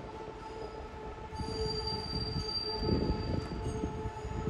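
Keihan electric train running on the line, a steady high whine over a low rumbling, with a louder clatter about three seconds in.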